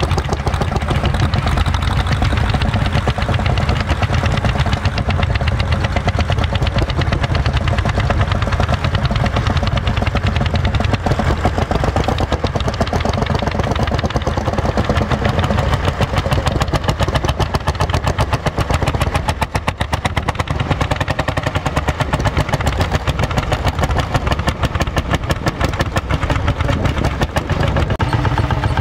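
Vintage tractor engine running under load, its exhaust a steady rapid staccato of sharp beats.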